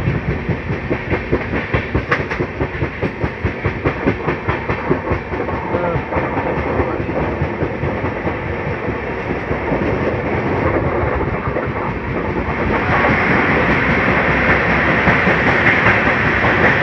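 Passenger train running at speed, heard from an open coach doorway: rapid rhythmic clatter of the wheels over the rail joints with rushing air. About twelve seconds in it turns into a louder, steadier rush with more hiss.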